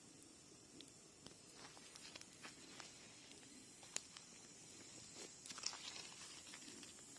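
Campfire of seasoned cherry wood crackling softly, with scattered small pops. Two sharper pops come about four seconds in and just before six seconds.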